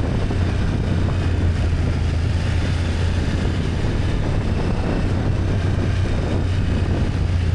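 BMW F800GS's parallel-twin engine running at a steady low drone while riding, with no rise or fall in pitch, over a constant rush of wind and road noise.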